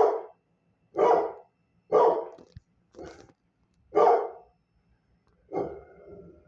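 A dog barking about once a second, five barks in a row, then a longer, drawn-out bark near the end.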